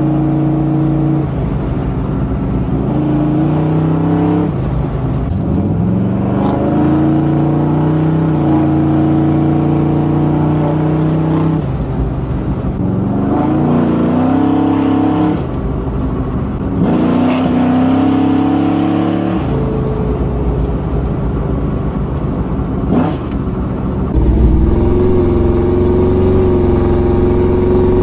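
A car engine running and being revved, its pitch stepping up and down several times, louder near the end.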